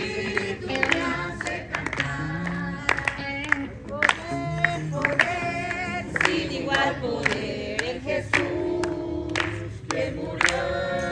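A group of people singing a worship song together, with sharp hand claps all through.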